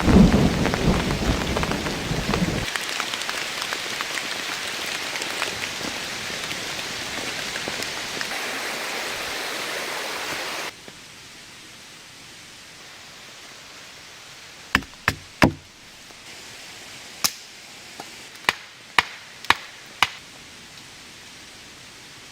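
Heavy rain hissing, with a low rumble in the first couple of seconds. About ten seconds in it cuts off abruptly to a much quieter steady hiss. Then a run of about eight sharp knocks follows over five or six seconds.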